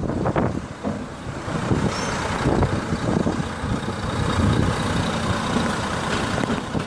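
Buses running in slow, queued traffic: a steady, heavy engine rumble.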